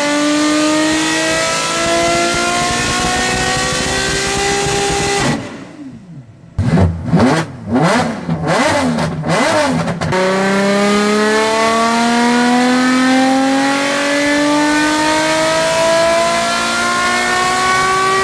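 Ferrari 599's 6.0-litre V12 running through an aftermarket exhaust, its note climbing steadily for about five seconds under hard acceleration. A short break of quick revs up and down follows, then another long, steady climb in pitch.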